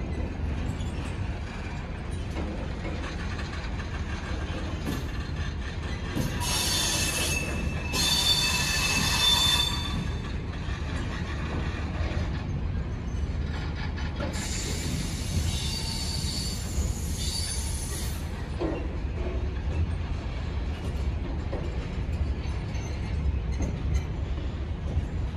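Freight wagons rolling past with a steady low rumble of wheels on rail. High-pitched wheel squeal breaks in three times: briefly about six seconds in, again just after eight seconds (the loudest), and longer from about fourteen to eighteen seconds.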